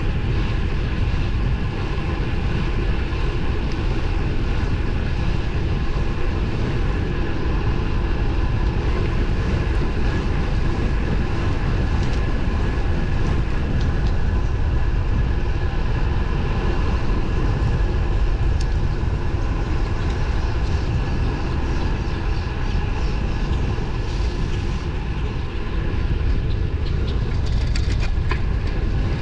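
Wind rushing over the microphone on a moving road bike, a steady loud rumble with a constant hum above it from the tyres and drivetrain, and a few light ticks near the end.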